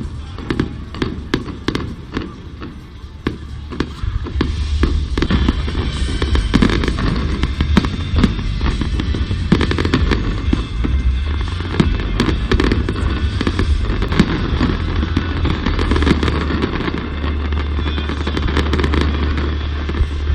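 Fireworks display: a dense run of bangs and crackles, thickening into near-continuous crackling after about four seconds, with music playing underneath.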